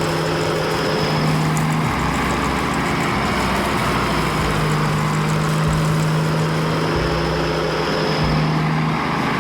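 Engine of a farm vehicle running steadily, a continuous loud engine noise with a low hum underneath.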